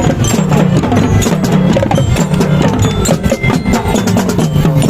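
Elementary-school marching band playing: a rapid drum line with pitched melody instruments over it.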